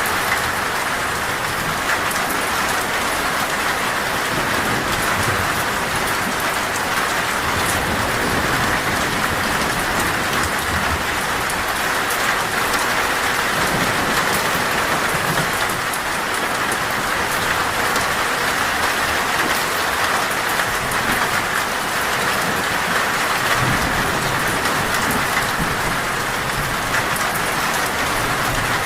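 Heavy, steady rain drumming on a metal roof, a dense even patter, with low thunder rumbling now and then underneath.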